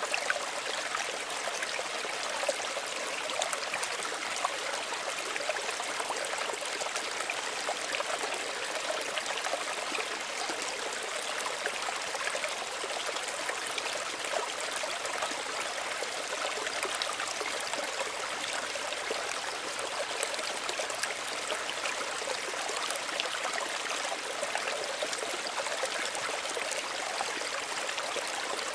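Small stream running and trickling steadily, a continuous gentle rush of water with many small splashes and babbles.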